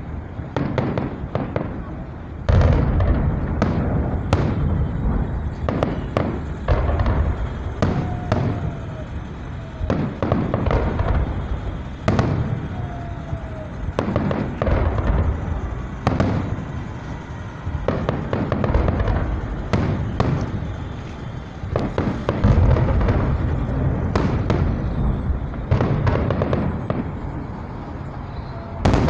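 Fireworks salute: many sharp bangs from bursting shells in quick succession, over a continuous low rumble.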